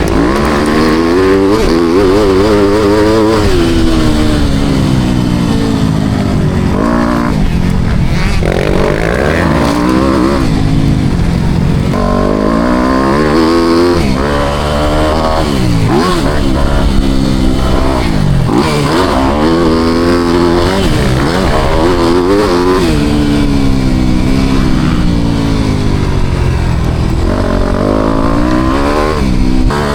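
Four-stroke motocross bike engine being ridden hard, its pitch rising and falling over and over as the throttle opens and closes through the gears.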